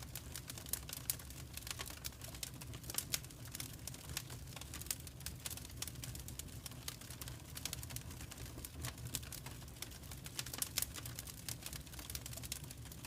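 Wood fire in a fireplace crackling: irregular sharp pops and snaps, a few louder ones, over a low steady rumble of the flames.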